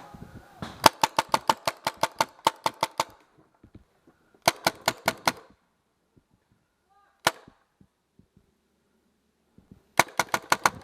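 Paintball marker firing in rapid strings of shots, about six a second: a long string of about a dozen, a shorter string of about five, a single shot, then another quick string at the end.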